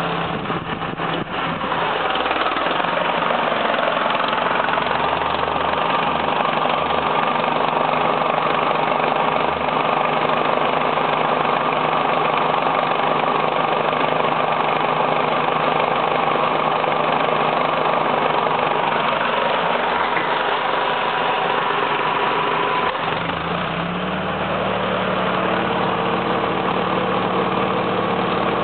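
Air-conditioning system running with a steady, engine-like mechanical drone. About 23 seconds in, the low hum dips briefly and comes back a little higher in pitch.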